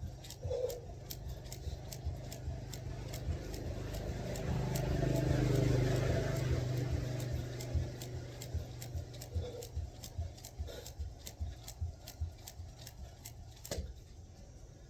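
A skipping rope slapping the ground in a steady rhythm, roughly two to three times a second, with the feet thudding on each landing. A passing vehicle swells and fades in the middle.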